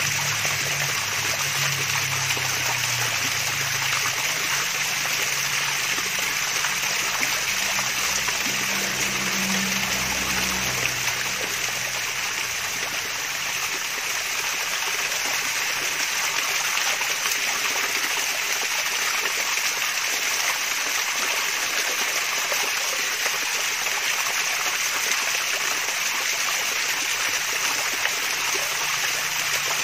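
Mini waterfall splashing and trickling steadily, an even rush of water with no breaks.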